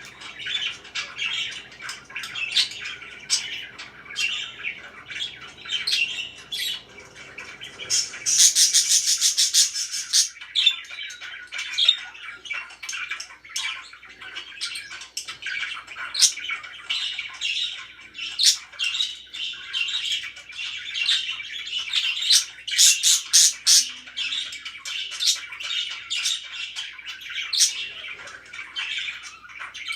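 Pet parakeets chirping and squawking continuously, with two louder spells of rapid, harsh squawks: one about eight seconds in and one a little past twenty seconds in.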